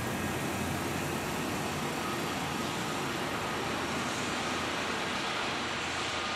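Kintetsu commuter electric train at the station platform: a steady rushing hum with a faint high tone, and no distinct knocks or horn.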